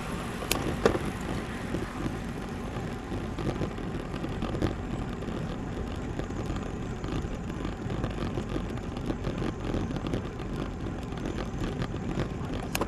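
Road bike rolling along: steady tyre and road rumble with wind on the microphone. A sharp click about half a second in and another near the end.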